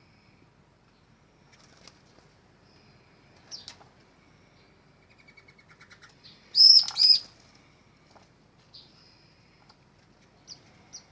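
Small aviary birds chirping: scattered short high calls and thin whistled notes, with two loud, sharp chirps close together about six and a half seconds in.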